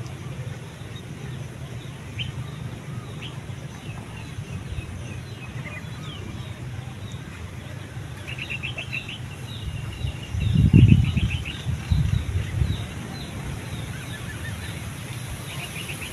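Small birds chirping and twittering, with a quick run of chirps about eight seconds in, over a steady low rumble. A loud low rush of noise comes about ten and a half seconds in, and a smaller one follows about a second later.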